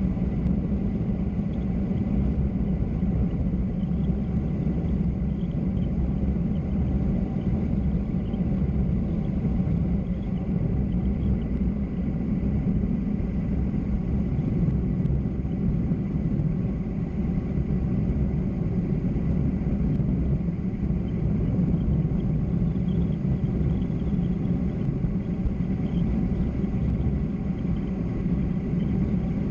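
Steady low rumble of road and wind noise from fast downhill travel, unchanging throughout.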